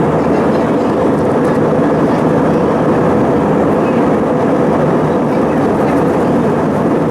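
Steady cabin noise of an Airbus A320 airliner in flight: a constant, loud rush of jet engines and airflow.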